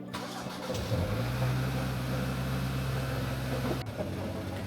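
Car running on the road, a steady engine and road hum heard from inside the cabin. The hum firms up about a second in and changes abruptly about four seconds in.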